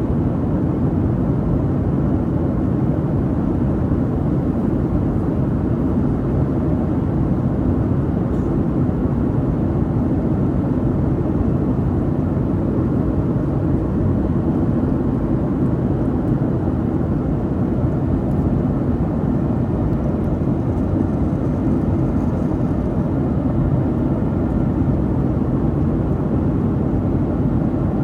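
Steady low rumble and rush inside the cabin of a Boeing 737-800 airliner: the engines and the airflow over the fuselage, heard from a window seat, with no change in level.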